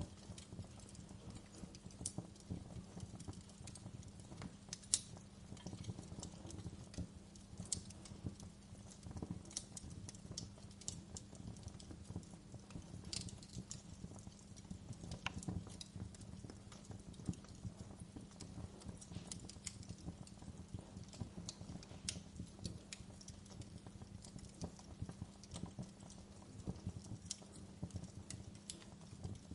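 Wood fire burning in a fireplace, crackling with irregular sharp pops and snaps over a steady low background, one pop louder than the rest about five seconds in.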